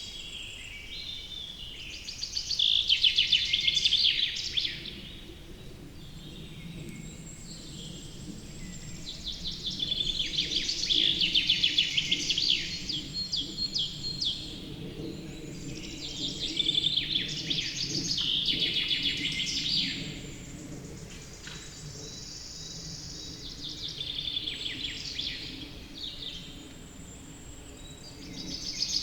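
Birdsong: a loud song phrase of rapid, high notes lasting two to three seconds, repeated about every six or seven seconds, over a steady low background hum.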